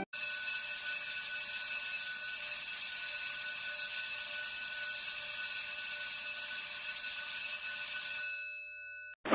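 An alarm ringing steadily, a continuous sound of several fixed high tones over a hiss. It cuts in abruptly and fades out about eight seconds in.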